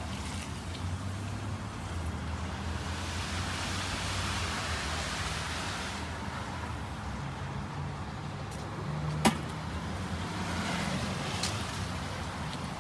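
Road traffic passing by: car engines and tyres swelling and fading twice over a steady low hum, with one sharp click about nine seconds in.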